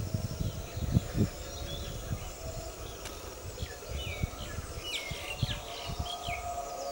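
Outdoor bird ambience: a series of short chirps and whistled, gliding calls from about two to six seconds in, with a few low thumps in the first second or so.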